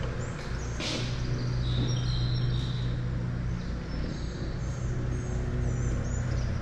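Motorcycle engine idling steadily, with small birds chirping over it and a single sharp click about a second in.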